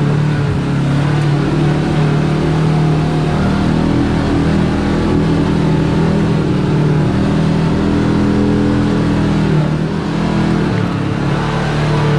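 Side-by-side UTV engine running steadily at low revs while driving, its pitch wavering a little, easing off briefly near the end.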